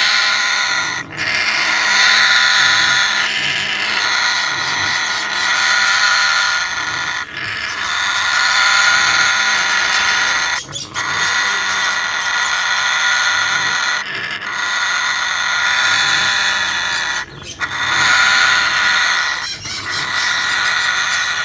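African grey parrot squealing at the opened nest box, long harsh calls of a few seconds each repeated over and over with only brief breaks: a parent bird's defensive protest at the nest being disturbed.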